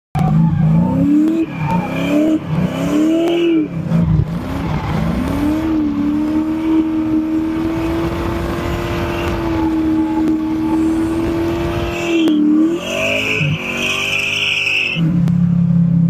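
Drift car's engine being driven hard on track: the revs rise and fall several times, then hold steady at high revs for several seconds before dropping off. A tyre squeal follows near the end.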